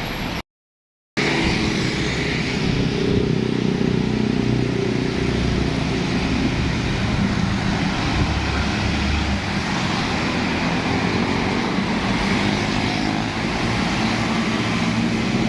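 Truck engine running steadily, with road traffic noise, after a short dropout to silence about half a second in.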